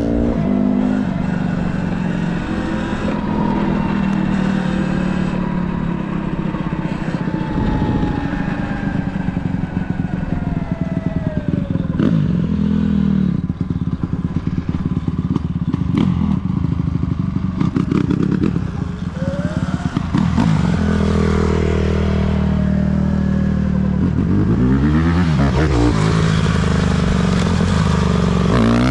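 Dirt bike engine running and revving, its pitch rising and falling with the throttle.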